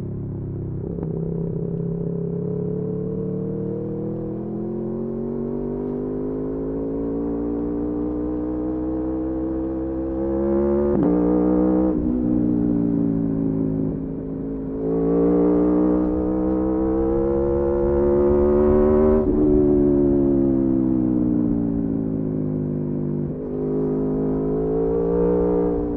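Aprilia Tuono V4 sport motorcycle's V4 engine under way: the revs climb under throttle and drop sharply at several quick shifts, then fall away as the throttle eases before it pulls again near the end.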